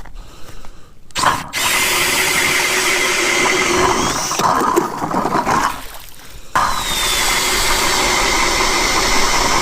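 Powered ice auger boring a hole through about five inches of lake ice, with a steady motor whine under the cutting noise. It runs for about five seconds, stops briefly about six seconds in, then starts again.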